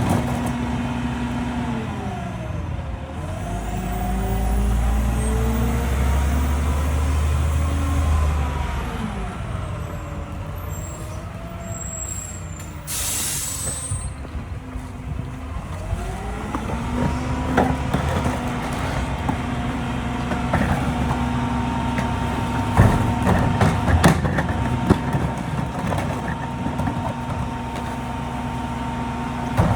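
Diesel engine of a Mack LEU rear-loader garbage truck, its speed rising and falling with a heavy low rumble in the first part. About 13 seconds in, an air brake hisses for about a second. Metallic knocks and clanks follow through the second half.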